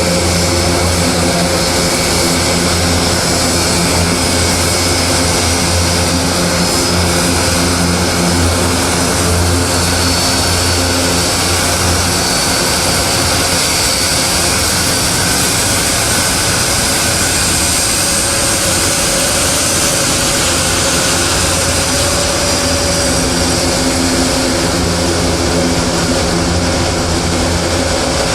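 Aircraft engines running steadily at an air show: a constant low hum with a high whine over it, with no pass-by rise or fall.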